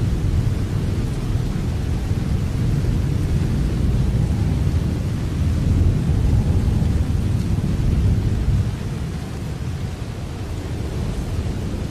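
Steady rain over a deep rumble, swelling louder in the middle and easing off after about eight and a half seconds.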